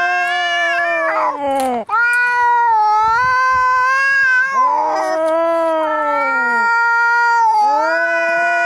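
Angry cats yowling in a fight: long, drawn-out caterwauls, one after another. Each swells and bends in pitch, then falls away at the end, and the calls sometimes overlap.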